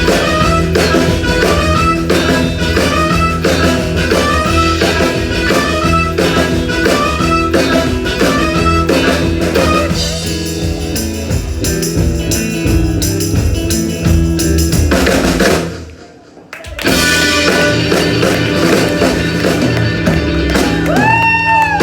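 Live band playing an upbeat song with a steady beat; the music drops out briefly about sixteen seconds in, then starts again.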